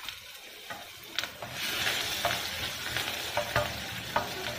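Mustard seeds and chopped green chillies sizzling in ghee in a nonstick frying pan while a wooden spatula stirs them. The sizzle grows louder about one and a half seconds in, with scattered sharp clicks.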